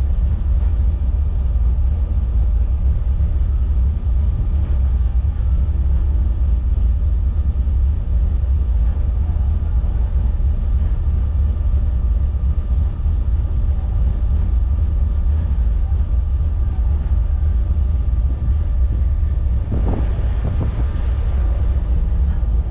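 Inside the cabin of a BMW E30, its M20B25 straight-six running at a steady, low-pitched rumble without revving. A brief rush of noise comes about twenty seconds in.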